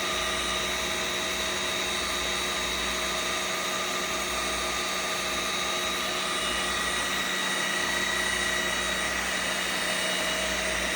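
Riccar R70 cordless floor washer running its brush-roll drying mode: the built-in drying fan blows steadily with a whir and a steady high whine.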